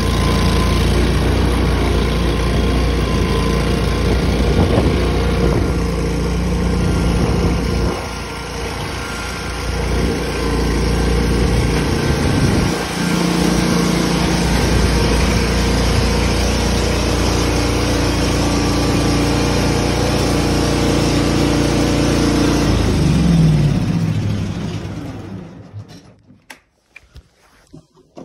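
Tractor engine running steadily, its speed shifting a few times, then switched off near the end and dying away over a couple of seconds.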